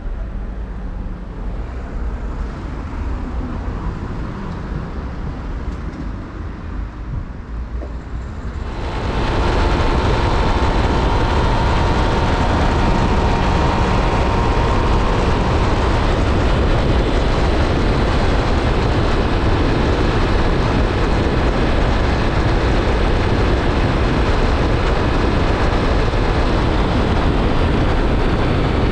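2006 Triumph Speed Triple's inline three-cylinder engine running at low speed, then about nine seconds in it gets suddenly louder as the bike accelerates. A steady, dense rush of engine and wind noise follows.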